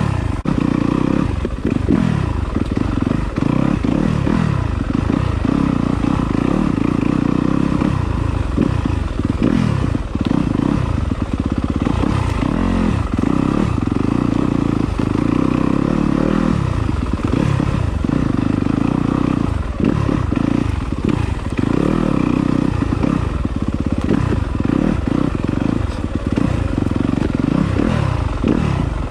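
Yamaha enduro dirt bike engine revving up and down over and over while riding rocky singletrack, with clattering and scraping from the rough ground.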